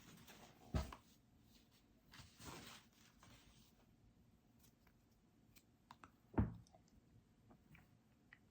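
Quiet eating from a McFlurry cup: small spoon clicks and scrapes, with two dull thumps, one about a second in and one about six seconds in.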